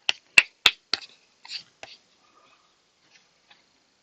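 A quick run of about seven sharp clicks and knocks in the first two seconds, the loudest two close together a little under a second in, then only a couple of faint ticks.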